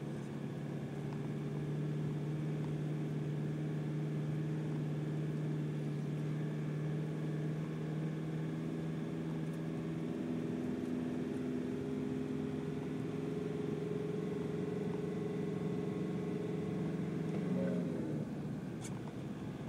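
Vehicle engine running steadily at low road speed, heard from inside the cabin. A couple of seconds before the end its note shifts and drops away as the engine eases off.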